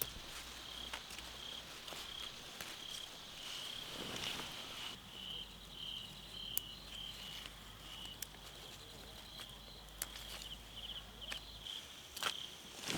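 Insects chirping in a steady string of short, repeated high chirps, with a few light knocks and clicks now and then.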